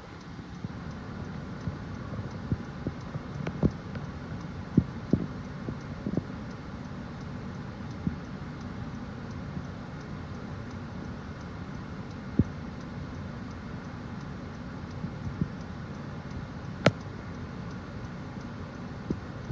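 Wind buffeting the microphone as a steady low rumble, with scattered sharp taps and clicks at irregular moments, the loudest about three-quarters of the way through.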